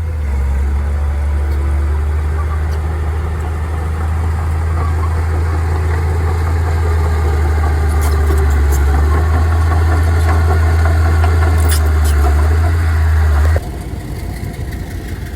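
Heavy earthmoving-machine or truck engine running steadily with a loud, deep hum, slowly growing louder and then dropping away abruptly near the end. A few sharp clicks sound over it in the middle.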